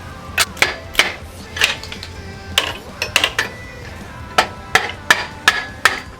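Hammer blows on the metal exhaust and heat shield of a Harley-Davidson Street Glide, about three sharp, ringing strikes a second, with a short pause in the middle.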